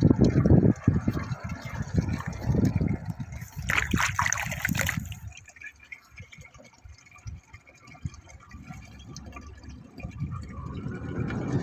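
Water pouring and splashing into a container, with a louder hissing splash about four seconds in, then much quieter from about five seconds on.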